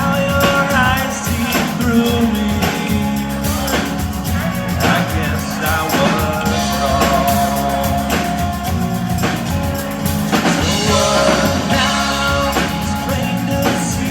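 Rock band playing live, with a singer over a steady drum beat and bass.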